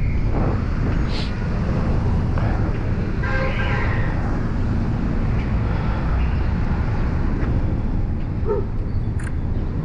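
Dirt bike under way: wind rumble on the microphone over the engine running. A vehicle horn sounds briefly about three seconds in.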